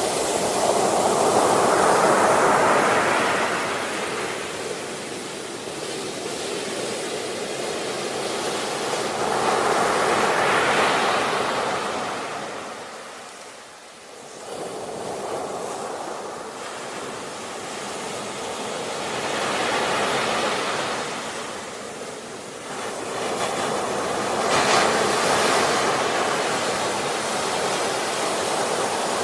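Sea waves washing onto a shore, each one swelling into a rushing hiss and fading back, about four in turn, with a deeper lull about halfway through.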